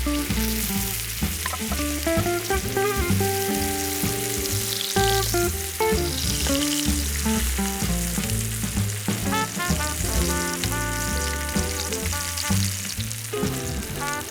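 Food sizzling as it fries, with a steady hiss, over background music with a changing melody and bass line.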